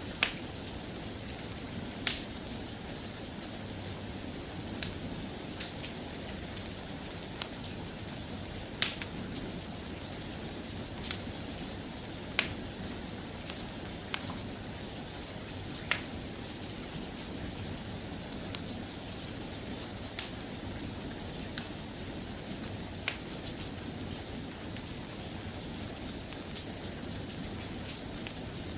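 Steady soft rain, with irregular sharp crackles from a wood fire every second or few.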